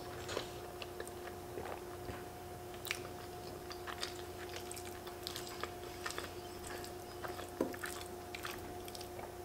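Close-up chewing of soft, creamy fettuccine Alfredo with the mouth closed: scattered small wet clicks and smacks of the mouth, with a fork working in the hollowed squash.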